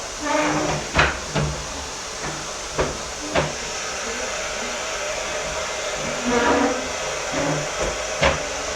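Bagged vacuum cleaner running steadily with a hissing motor noise, with a few sharp knocks, likely the hose or nozzle bumping as it is worked.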